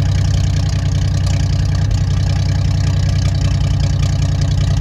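Hall-Scott 1091 inline-six engine of a 1958 Mack B-21 fire truck idling steadily, freshly revived after decades of sitting.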